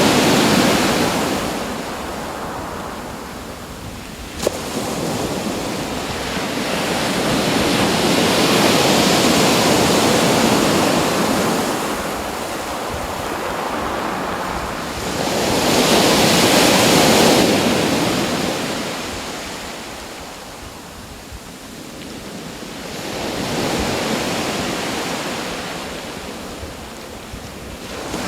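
Surf: waves breaking and washing in, swelling and fading in slow surges about every eight seconds. There is a single brief click about four and a half seconds in.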